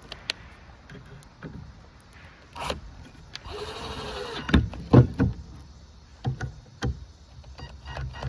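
Cordless drill-driver with a Phillips bit running for about a second, driving a screw into wood, followed by several sharp knocks and clicks of wood and tools being handled.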